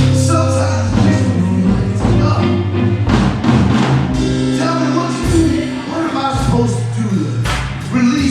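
Live blues band playing a slow blues, with electric guitars, bass, drums and harmonica, in an instrumental stretch between sung lines.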